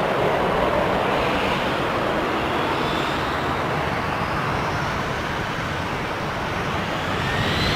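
Airliner engines running loud and steady as an airliner moves on or near the runway, with an engine whine that shifts in pitch.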